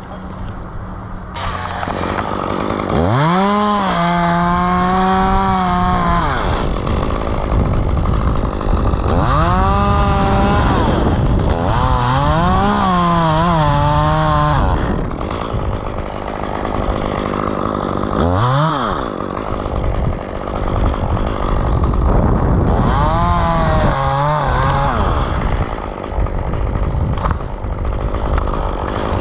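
Chainsaw revving up to full speed and dropping back to idle, about four runs of a few seconds each plus one short blip of the throttle, idling in between.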